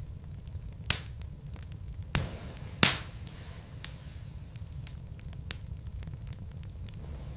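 Wood logs burning in a fireplace: a steady low rumble of flame with scattered small crackles and three louder pops in the first three seconds, the loudest nearly three seconds in.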